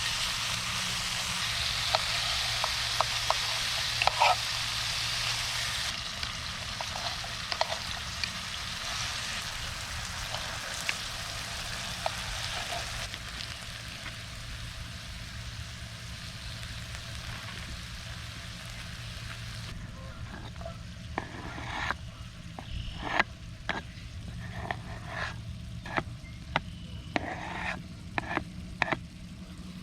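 Food sizzling in a pan over a campfire, with sharp clicks and taps scattered through it. The sizzle is strongest at first and fades in steps, while the clicks come more often in the later part.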